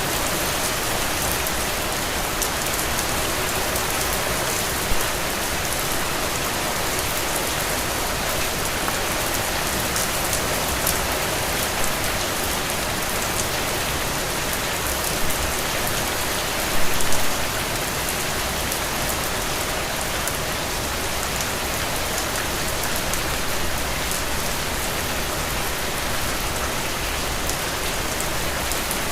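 Steady rain falling and pattering on surfaces, with a few louder drops or splashes about five seconds in and again about two-thirds of the way through.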